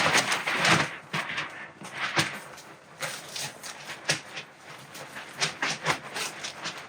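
Softbox fabric rustling and scraping as it is handled and fitted onto its frame, with many irregular clicks and knocks from the frame and fittings.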